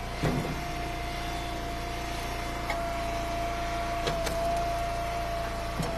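Hydraulic wood splitter running: a steady engine hum with a steady whine from the hydraulics, and four short knocks as firewood rounds split and pieces drop.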